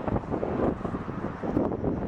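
Wind buffeting the microphone: an uneven, gusting low rumble that swells and dips.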